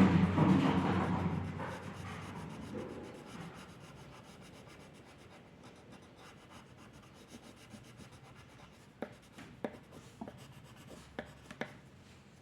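Pen or pencil strokes on paper. A loud burst of scratchy strokes right at the start fades over about two seconds, then fainter strokes and a handful of sharp clicks near the end.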